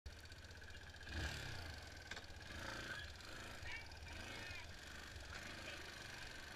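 Yamaha Fazer 250 motorcycle's engine idling faintly, with a steady higher drone over it and a brief louder rumble about a second in.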